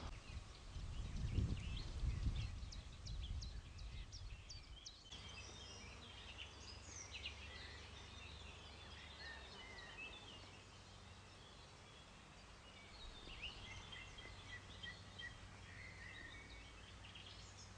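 Songbirds chirping and calling, several at once, faint against outdoor background noise, with a low rumble in the first few seconds.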